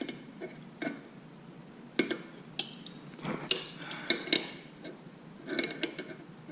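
Small metal tools and parts clinking and rattling as they are handled: a string of sharp, irregular clicks, several with a short metallic ring.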